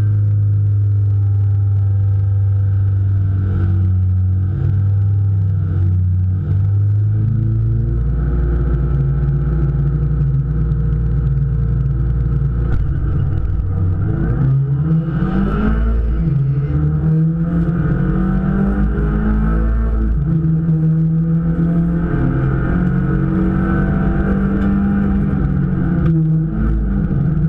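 Race car's engine heard from inside the cockpit, loud throughout. It holds a steady note for the first several seconds, then accelerates hard, the pitch climbing and dropping back again at gear changes, with road and cabin noise.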